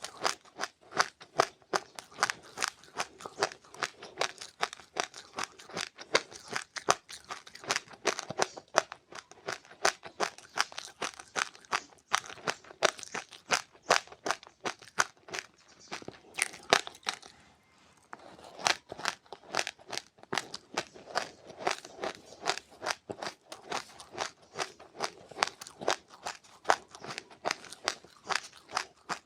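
Close-up chewing of crunchy seeds, a rapid run of crisp crunches several times a second, with a brief pause a little past halfway.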